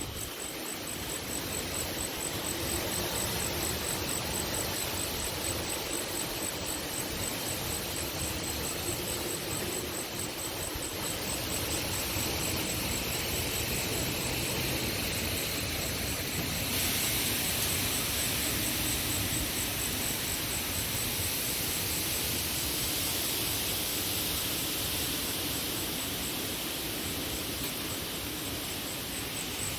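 Strong wind rushing over the microphone in a steady noise, gusting a little harder about two-thirds of the way through. Under it an insect chirps in an even, high-pitched pulse.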